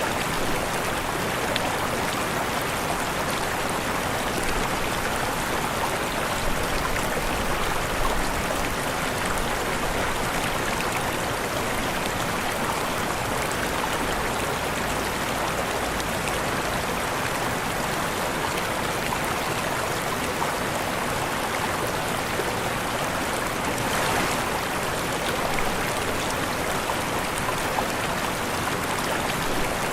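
Waterfall rushing: a steady, even wash of falling and splashing water.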